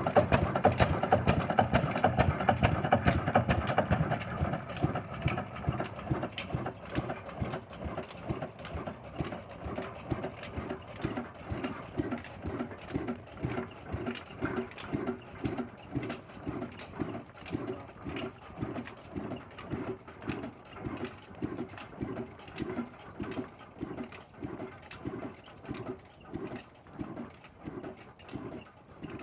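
Old Ruston Hornsby single-cylinder stationary diesel engine running, busier and louder for the first few seconds, then settling into a slow, even beat of about two firing puffs a second that gradually grows fainter.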